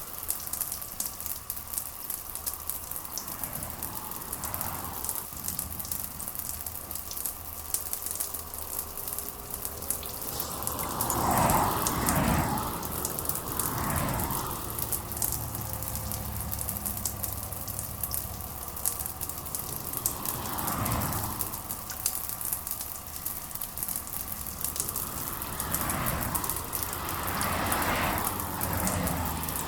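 Steady rain falling, fine drops pattering, with a few brief louder swells every several seconds.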